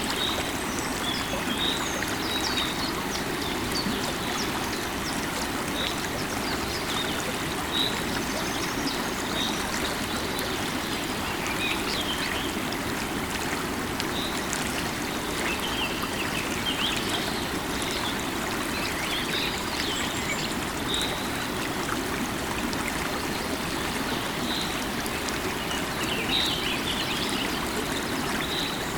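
Running river water, a steady even rush, with small birds chirping on and off throughout.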